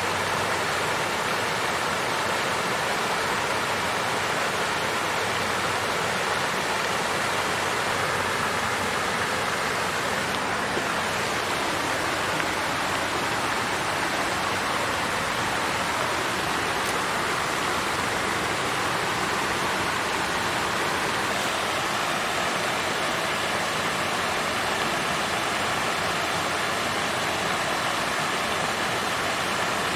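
Water fountain flowing steadily, an even splashing rush of falling water with no breaks.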